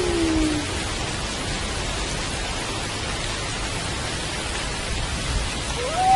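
Steady rain. Two wolf howls slide down in pitch and fade out in the first second, and a new howl rises in just before the end.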